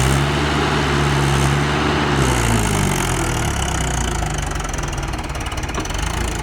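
Mahindra tractor's diesel engine revved up, held high for about two seconds, then let fall back to a steady idle.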